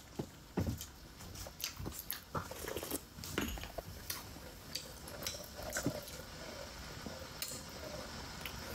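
Close-miked mouth sounds of someone chewing steamed momo dumplings: wet smacks and clicks at an irregular pace.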